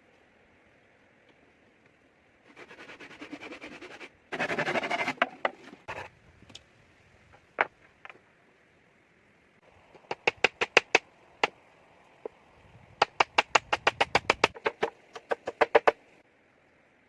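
A stretch of scraping or rustling, then two quick runs of sharp knocks, about five a second, like tool strikes during shelter building.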